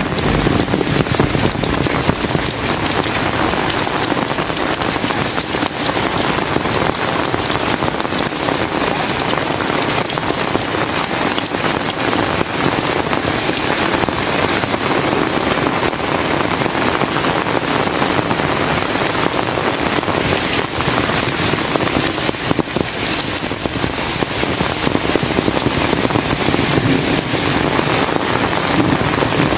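Heavy rain falling steadily, a dense, loud patter with no letup.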